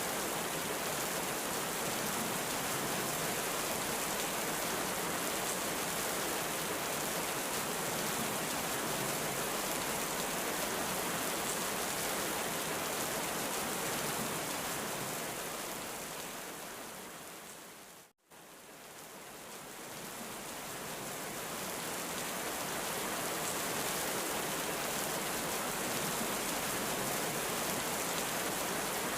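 Steady heavy rain. About fifteen seconds in it fades down to a moment of silence, then fades back up over the next few seconds.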